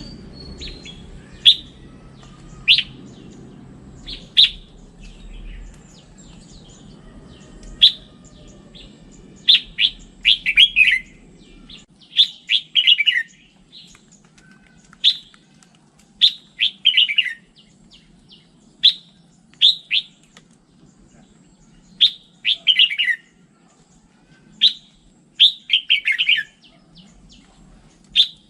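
Red-whiskered bulbul singing: short, clear phrases and quick falling notes, repeated every second or two. A low background rumble fades out about twelve seconds in.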